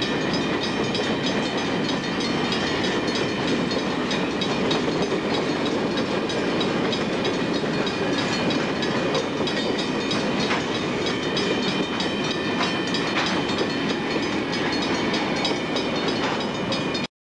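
Freight train's hopper cars rolling past: a steady rumble of steel wheels on rail, with a few sharp clicks from the rail joints. The sound cuts off abruptly near the end.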